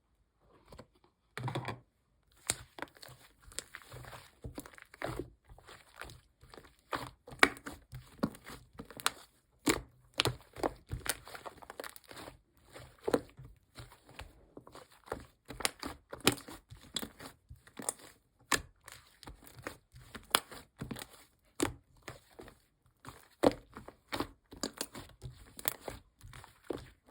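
Hands handling paper and plastic materials at close range: rustling, crinkling and tearing, with many small clicks and taps.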